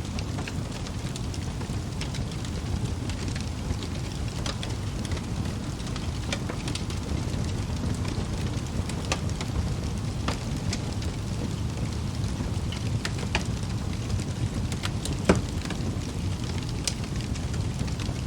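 Wood fire burning in a fireplace: a steady low rush of flames with scattered crackles of burning logs and one louder pop about three seconds before the end.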